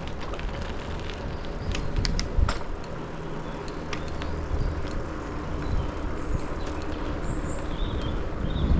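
Riding noise from a bicycle-mounted action camera: a steady rumble of wind and road, with a few sharp clicks and rattles about two seconds in and faint high chirps near the end.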